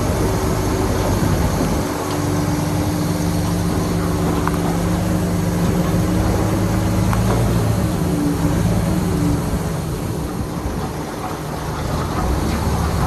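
Bulldozer's heavy diesel engine running steadily, with an even engine note that eases off near the end.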